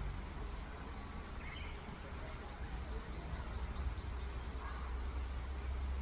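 A small songbird sings: a few opening notes, then a fast, even series of about a dozen short falling notes, ending a little before the close. A low steady rumble runs underneath.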